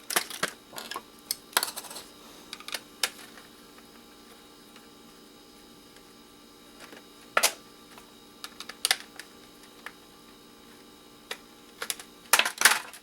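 Scattered clicks and taps of a DVD drive's metal casing and small screws being handled and unscrewed by hand, with a single sharper knock about halfway through and a quick cluster of clicks near the end.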